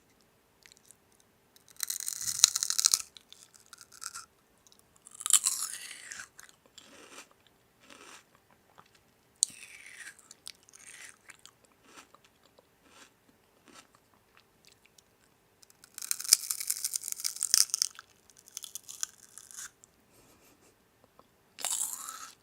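Crunchy biting and chewing heard close up, in a few crackly bursts of a second or two separated by quieter gaps, over a faint steady hum.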